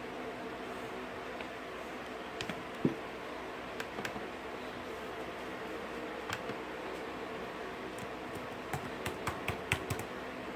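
Scattered clicks and taps on a laptop's keys or touchpad, a few in quick succession near the end, over a steady low hum.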